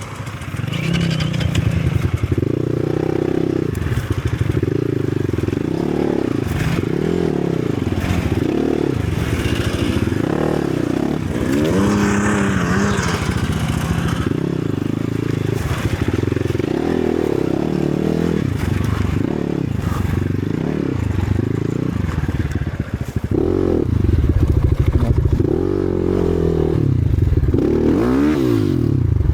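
Enduro motorcycle engine revving up and down again and again as it is ridden over rough trail, with scraping and clattering along the way.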